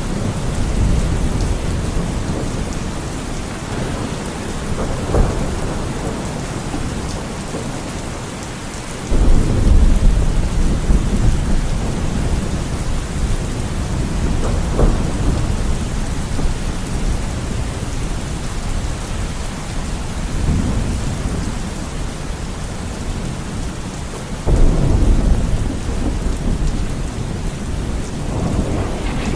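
Steady rain with rolling thunder: deep rumbles swell up suddenly twice, about a third of the way in and again near the end, each fading slowly, over a constant hiss of falling rain.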